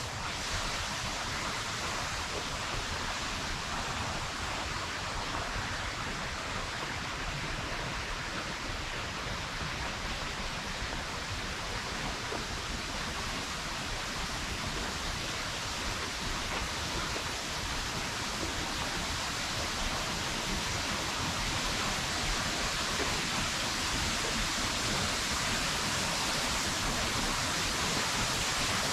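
Steinsdalsfossen waterfall: a steady rush of falling water, swelling slightly louder toward the end.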